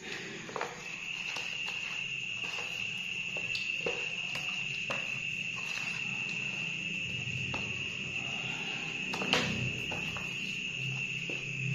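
A cricket's continuous high trill, one steady pitch, with scattered clicks and knocks over it.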